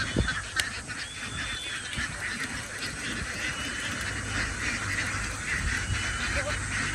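A flock of farmed ducks quacking and chattering together in a dense, continuous babble of overlapping calls, with thin high whistled notes above it.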